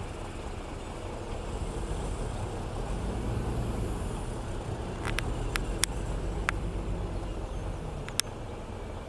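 Diesel engine of heavy road-building machinery running steadily with a low rumble. Several sharp clicks come about five to six and a half seconds in, and one more near the end.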